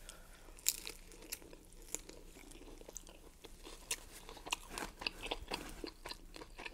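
Someone biting and chewing crisp fried corn tortilla, a run of irregular sharp crunches.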